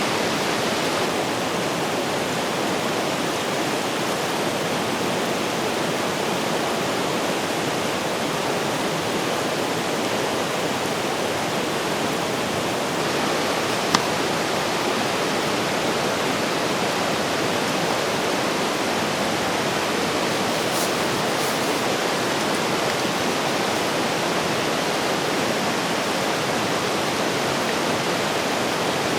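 A river rushing steadily over rocks, a constant dense roar of water. One sharp click about fourteen seconds in.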